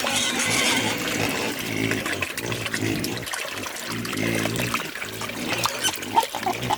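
Water running and splashing steadily, with a few short low-pitched grunts in the middle.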